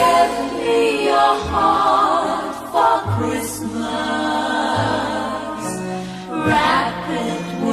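Christmas music: voices singing held, wavering notes over low accompanying notes that change every second or so.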